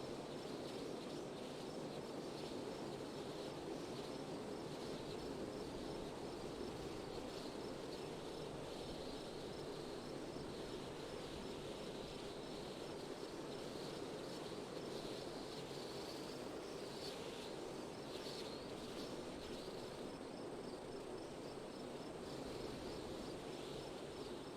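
Steady wind with crickets chirping in an even rhythm over it.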